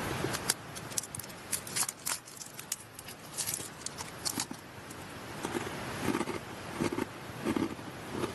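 Crinkling, crackling snack packaging, then rice crackers (okaki) crunched and chewed in a steady rhythm, about one crunch every 0.7 seconds, over the rush of a mountain stream.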